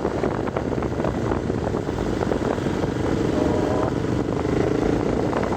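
Steady rushing, rumbling noise with many small knocks and rattles in it, with no pause.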